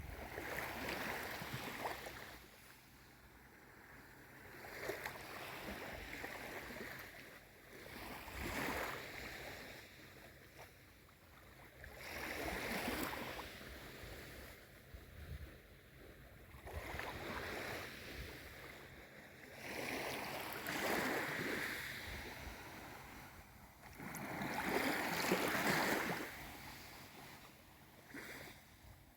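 Small sea waves washing in on a calm sea: a soft rush of surf that swells and falls back about every four seconds.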